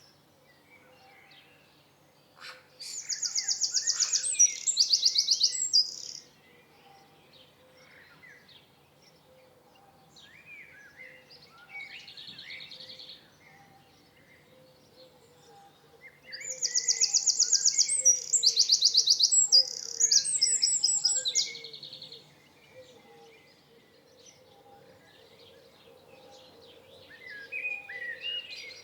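A songbird singing two long, loud phrases of fast, high trills mixed with varied notes, one a few seconds in and another about halfway through, with quieter chirps between.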